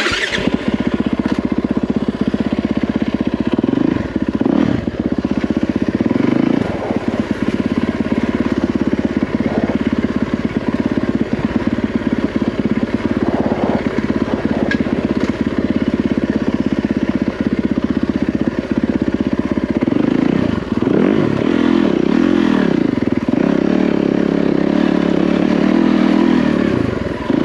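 Yamaha WR450F dirt bike's single-cylinder four-stroke engine running as it is ridden along a forest trail, starting suddenly and carrying on steadily. The revs rise and fall repeatedly in the last several seconds.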